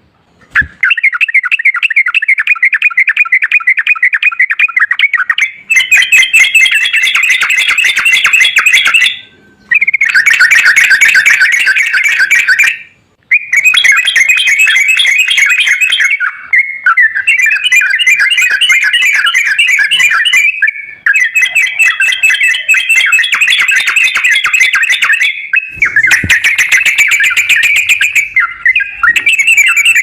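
Yellow-vented bulbul (trucukan) song: fast, dense chattering trills repeated almost without pause, breaking off briefly about 9 and 13 seconds in.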